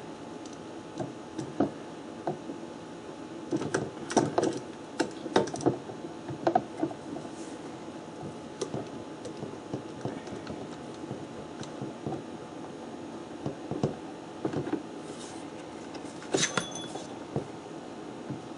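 Scattered light clicks and knocks of a piece of oak being fitted and handled against a wooden toolbox, in clusters a few seconds in and again near the end, over a steady low hum.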